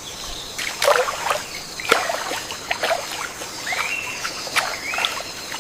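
Forest ambience: a steady high hiss with water trickling and splashing in a few sharp strokes, and short bird calls that rise and then hold, twice in the second half.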